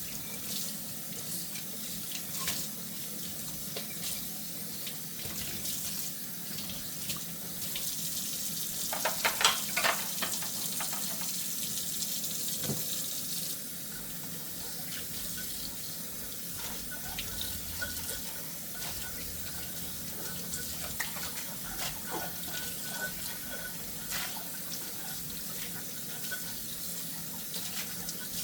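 Kitchen tap running steadily into a sink while dishes are washed by hand, with scattered clinks of dishes and a louder clatter of several knocks about a third of the way in.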